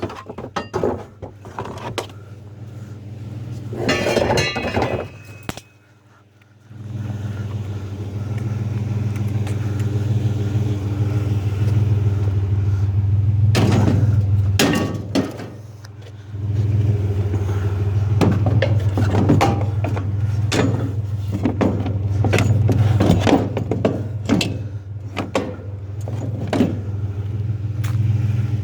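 A vehicle engine idles steadily while heavy scrap metal is handled, with repeated clanks, knocks and a scraping screech of metal on metal.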